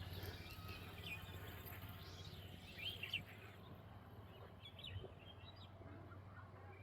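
Birds chirping in short calls, loudest about two to three seconds in, over a faint steady low hum.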